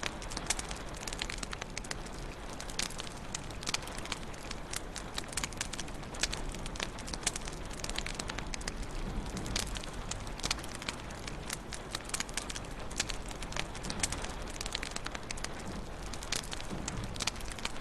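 Wood fire crackling in a fireplace: a steady hiss of burning with frequent sharp, irregular pops and snaps.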